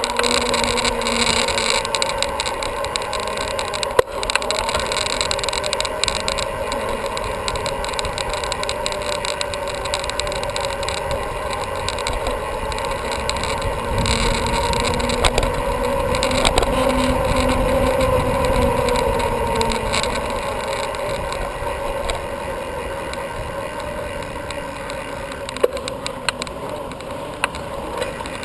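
Bicycle riding noise heard from the rider's camera: wind on the microphone and tyre and drivetrain noise, with a faint hum that slowly drifts in pitch and a few sharp clicks.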